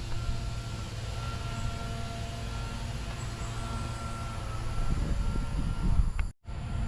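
Wind and road rumble on the microphone of a camera riding along on a bicycle, with a faint steady thin whine above it. The sound cuts out completely for a moment near the end.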